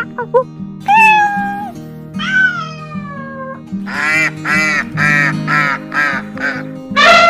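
Cat meowing over background music: two long, slightly falling meows, then a quick run of about eight short meows.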